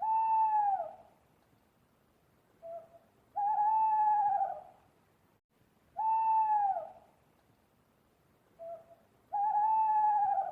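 An animal's pitched call about a second long, arching slightly and falling at the end, given four times at even spacing. The second and fourth calls each come just after a short, lower note.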